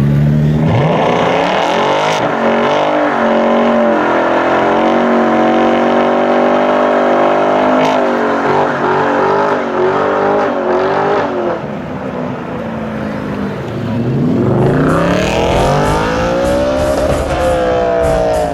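Car engine revving hard: it climbs about a second in and is held at high revs with the pitch wavering for several seconds, drops off, then sweeps up again and falls away near the end.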